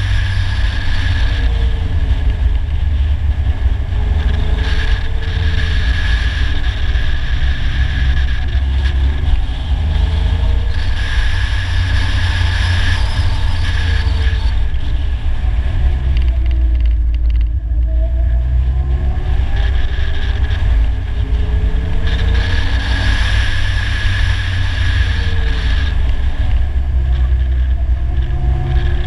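Polaris Slingshot's four-cylinder engine under way, its revs climbing and falling again and again as it accelerates and backs off through bends, over a steady low rumble. About halfway through it backs right off and the engine note drops for a moment before pulling again.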